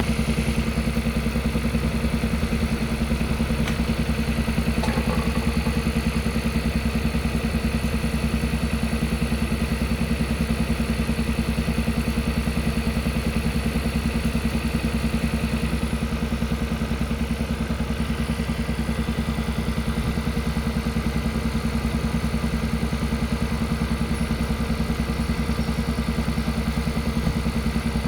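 Kia Carnival hybrid's engine running steadily with a rapid, even thudding pulse: the 'puck-puck-puck' (퍽퍽퍽) engine noise the owner is reporting as a complaint.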